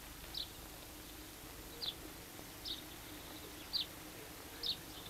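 Faint bird chirps: short single falling calls, about one a second at uneven spacing, over a faint steady low hum.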